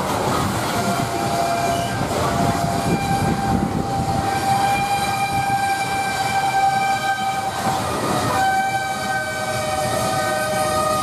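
Loaded coal cars rolling past on curved track: a steady rumble of wheels on rail with long, steady squealing tones from the wheels grinding against the curve. The squeal changes pitch about eight seconds in.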